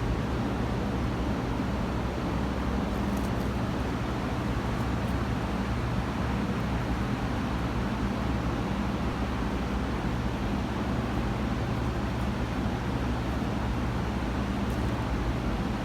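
A steady machine drone: a constant low hum under an even rushing noise, with no change in level, like a fan or air-conditioning unit running. A few faint light ticks sound over it.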